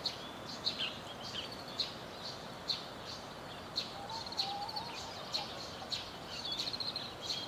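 Small birds chirping again and again, short sharp calls about one to two a second with a few brief trills, over a steady outdoor hiss.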